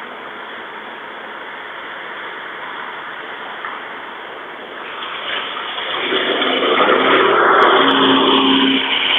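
Steady rushing noise, then a motor vehicle approaching and passing close by, its engine and tyres loudest about eight seconds in before easing off.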